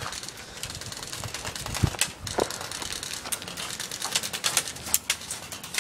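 Airsoft guns firing in an exchange: an irregular string of sharp clicks and pops, several a second, mixed with BBs striking cover.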